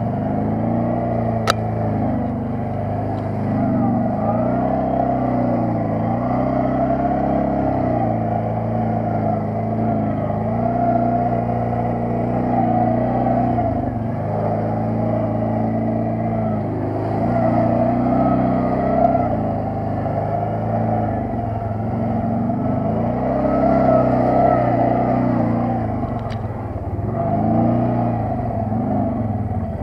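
Quad bike (ATV) engine running under way, its revs repeatedly rising and falling every few seconds, with a couple of brief clicks.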